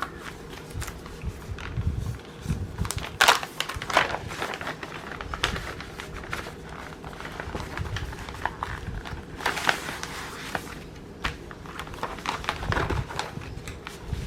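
Crinkling and rustling of a cross-stitch kit's packaging being handled, with scattered light taps and clicks.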